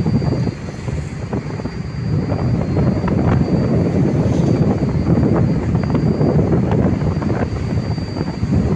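Tugboat's diesel engine running with a steady low throb, mixed with wind buffeting the microphone.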